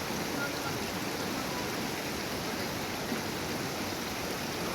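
Small river flowing, a steady rushing of water.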